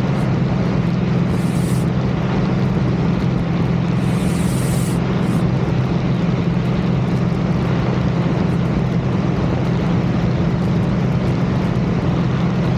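Light aircraft's piston engine and propeller running steadily at climb power just after takeoff, a constant low drone with rushing noise.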